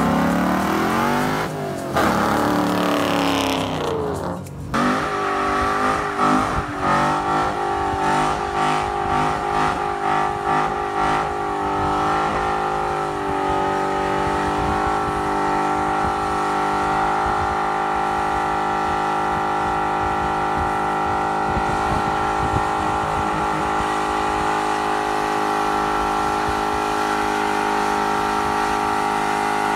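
2010 Dodge Challenger SRT8's 6.1 Hemi V8 with Kooks headers, loud, doing a burnout. It revs up and down in the first few seconds, pulses rapidly up and down for several seconds, then holds steady at high revs as the rear tires spin and smoke.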